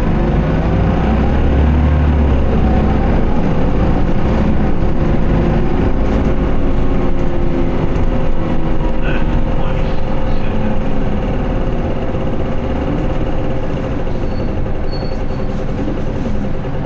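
Isuzu Erga Mio city bus (QDG-LV290N1) four-cylinder turbodiesel heard from inside the cabin while under way, its engine note rising and falling as the bus accelerates and eases off, over a low rumble and a steady hum.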